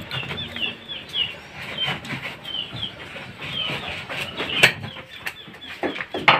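Birds chirping: many short, high, falling chirps in quick succession, with a few sharp clicks, the loudest about four and a half seconds in and just before the end.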